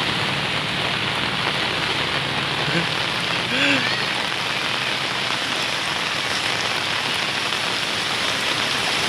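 Steady heavy rain falling, an even rushing hiss. About three and a half seconds in, a brief arched tone sounds over it.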